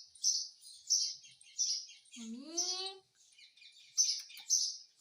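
Pet parrot giving short high chirps, about two a second, with one longer rising call about two seconds in.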